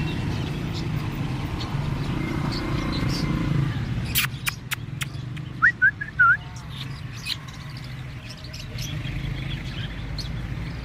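Caged bird giving three short, quick rising chirps about halfway through, after a few sharp clicks, over a steady low background rumble.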